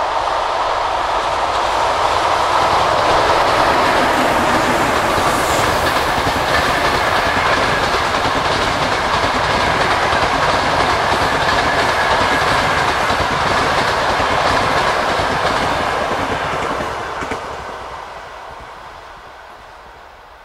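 Electric-hauled passenger train passing at speed: a steady rumble of the coaches' wheels rattling over the rails, fading away over the last few seconds as the train recedes.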